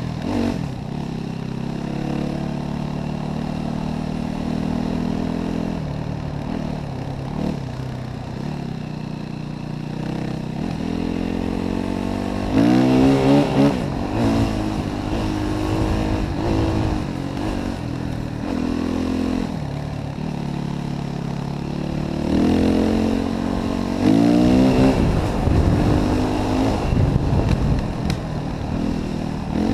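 Yamaha WR450F single-cylinder four-stroke enduro motorcycle engine running under changing throttle, its pitch rising and falling. It revs hard in short bursts, loudest about halfway through and again toward the end.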